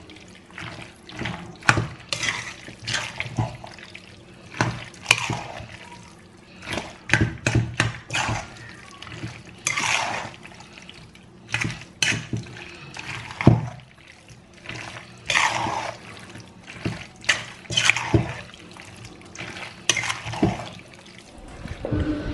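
Water running and splashing at a kitchen sink in short, uneven spells, with dishes and utensils clattering and knocking against each other, as in washing up.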